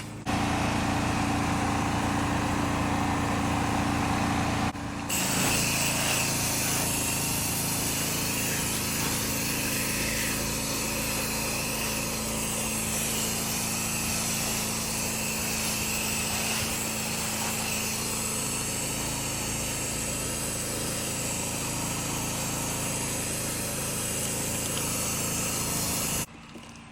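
Pressure washing rig's small engine running steadily, with the hiss of water spraying. The sound changes abruptly about five seconds in and drops away just before the end.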